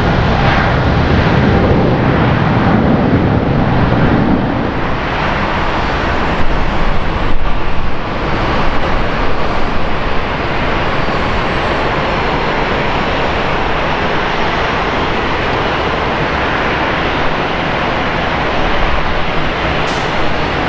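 Twin-engine wide-body jet airliner's engines, a loud, deep rumble for the first four seconds that settles into a steady rush.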